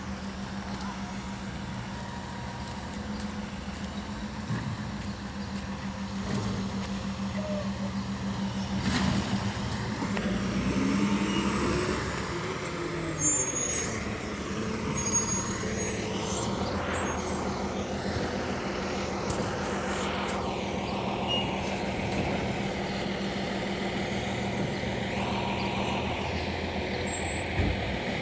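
Garbage truck's diesel engine running steadily while its hydraulic compactor cycles, with rising and falling hydraulic whines and short high squeaks from the packer mechanism.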